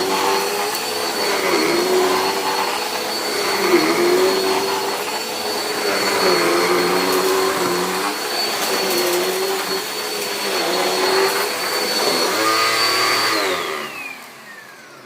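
Dirt Devil Power Express upright vacuum running over carpet: a steady high motor whine, with a lower tone that dips and rises with each push-and-pull stroke. The brush roll sounds kind of weird, which the owner puts down to an old, worn brush. Near the end the vacuum is switched off and the whine falls as the motor spins down.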